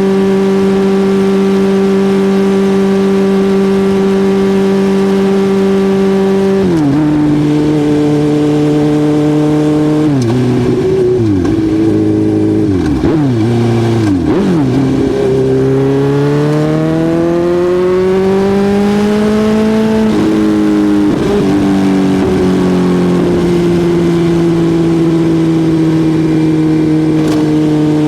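Suzuki GSX-R1000 inline-four engine running hard at steady revs, then dropping in pitch about seven seconds in. A run of quick dips and rises follows, then a long climb in revs over about five seconds, a sudden drop as it shifts up, and a steady note that sags slowly toward the end.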